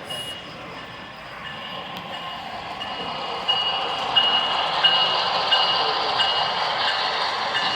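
Model diesel locomotive running along layout track, growing louder as it comes closer. A steady high whine sits over the running noise, with a regular clicking about one and a half times a second once it is near.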